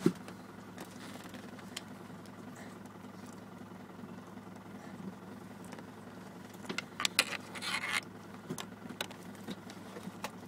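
Land Rover Discovery engine idling, heard from inside the cab as a low steady hum, with scattered clicks and a cluster of scraping rustles about seven seconds in.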